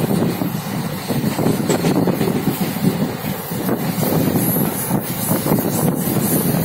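Passenger train running at speed, heard from beside an open window: a steady rumble of the wheels on the rails.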